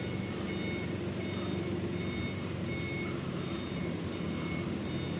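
A heavy vehicle's reversing alarm beeping about once a second over its running engine.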